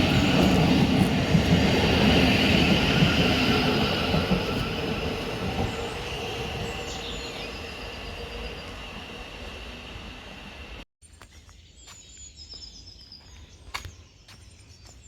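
A train running along the track with a steady high whine, its noise fading steadily as it moves away. About eleven seconds in the sound cuts to a much quieter background with a few faint clicks and short high chirps.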